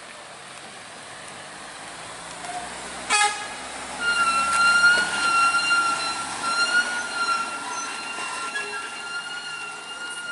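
A vehicle horn gives a short sharp blast about three seconds in, then from about four seconds sounds one long steady tone over the running noise of a heavy truck.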